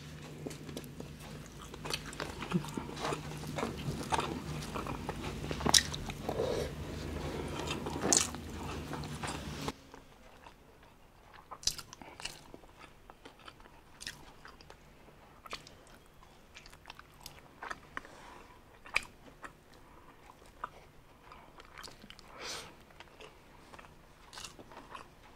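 Close-miked mouth sounds of a person biting and chewing strips of roast pork meat: many small wet clicks and smacks. A low hum sits under the first ten seconds and cuts off suddenly, after which the chewing clicks are softer and more scattered.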